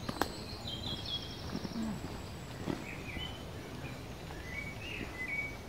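Small birds singing, with short high chirping phrases in two spells, over steady low background noise. One sharp click comes just after the start.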